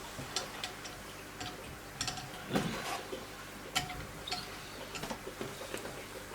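Irregular light metallic clicks and taps from handling knife-sharpening equipment, several ringing briefly, with a short scrape about two and a half seconds in.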